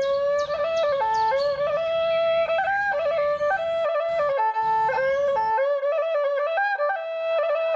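Instrumental music: a single melody on a flute-like wind instrument in a traditional style, one note after another with short slides between them.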